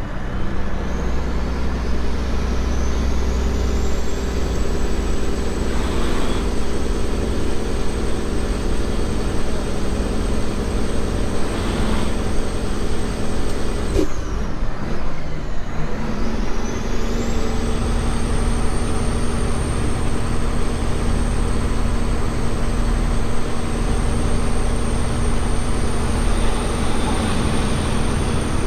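Semi truck engine running under way, heard from inside the cab, with a steady low drone. A high whine climbs over the first few seconds and holds, falls away about halfway through, then climbs back and holds again.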